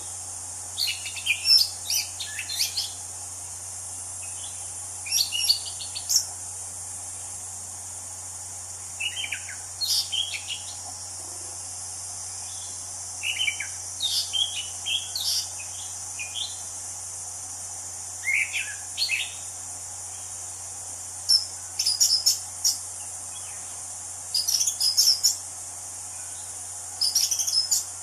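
An anis cendana, a ground thrush, singing short phrases of quick, varied notes every few seconds. Under it runs a steady high insect drone and a low hum.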